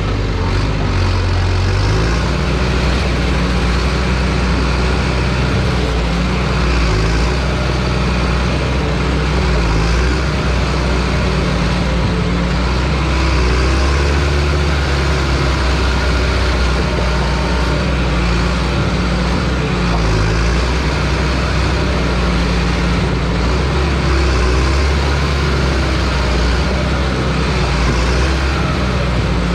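John Deere bulldozer's diesel engine running hard while pushing logs, its low engine note shifting up and down as the load changes.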